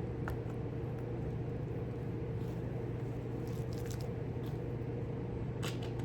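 Small clicks and crunches of tacks being pushed by hand into a model bridge's underside: one early, a cluster past the middle and a sharper one near the end. A steady low hum runs underneath.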